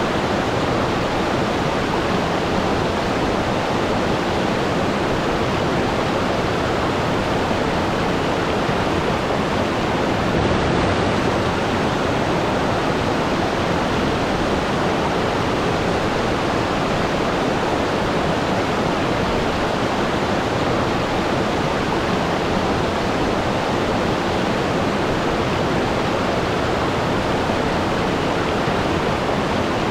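Waterfall, water falling and splashing in a steady rush.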